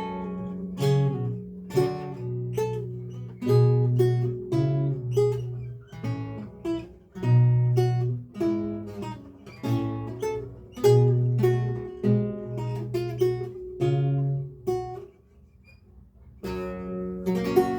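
Lute playing a recercar: a running line of plucked notes over a low bass. About fifteen seconds in, the playing stops for a moment, then a single spread chord rings out near the end.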